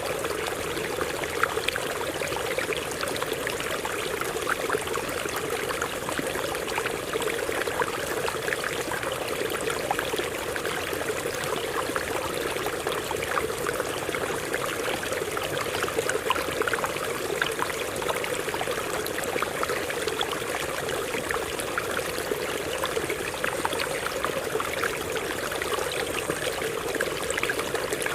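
Water running over rocks in a stream: a steady rush with many small splashes and trickles.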